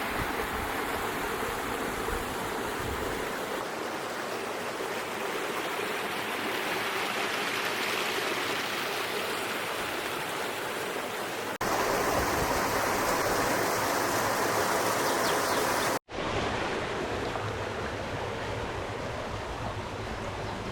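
Steady rush of running water from a stream or small cascade. It changes abruptly twice, just past halfway and again a few seconds later, as the footage cuts between shots.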